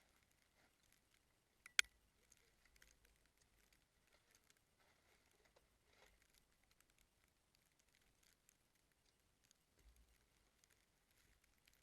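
Near silence with faint scattered ticks, and one sharp click about two seconds in.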